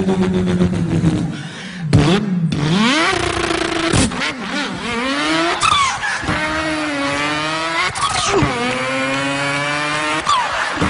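A man's voice imitating a car engine: held engine notes alternating with rising revs that break off and climb again, like gear changes. There are a few sharp cracks along the way.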